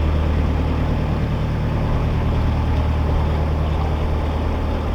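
Narrowboat engine running steadily, a low even hum.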